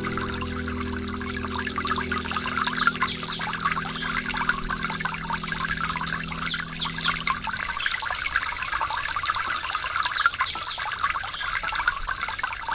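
Waterfall water falling and splashing in a steady trickling rush. A soft held low music chord sounds underneath and fades out about two-thirds of the way through.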